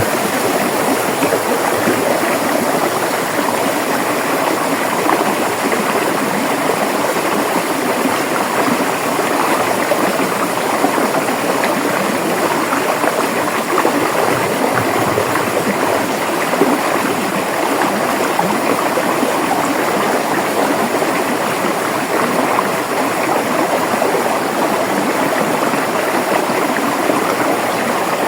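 River water flowing and churning, a steady rushing babble.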